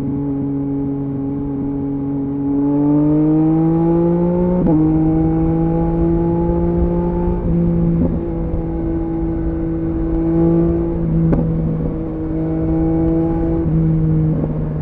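Yamaha MT-09 three-cylinder engine through a LeoVince LV Race exhaust, heard from the rider's seat. It holds steady revs, climbs in pitch under throttle, and breaks off sharply about four and a half seconds in, as at a gear change. It then runs at a fairly even pitch with small throttle dips, dropping lower for a stretch near the end.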